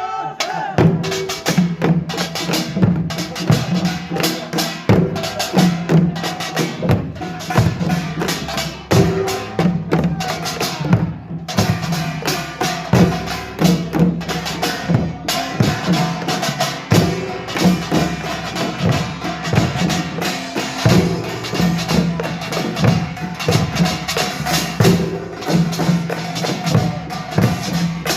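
Pungmul percussion ensemble playing a fast, dense rhythm, with kkwaenggwari small gongs clanging over janggu and buk drums.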